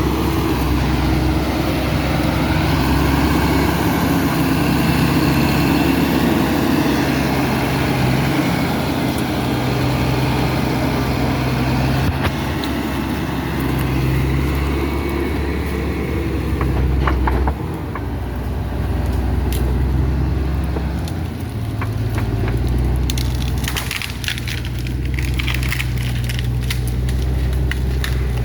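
John Deere 848H skidder's diesel engine running steadily, with wood cracking and snapping, scattered at first and frequent in the last third.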